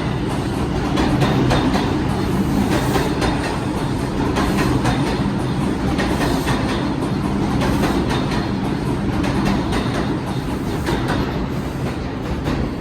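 New York City subway 2 train pulling out of the station past the platform, a steady loud rumble with the wheels clicking rapidly over the rail joints.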